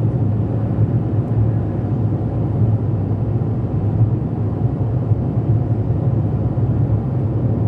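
Steady road and engine noise inside a moving car at highway speed: an even low rumble with no music or voice over it.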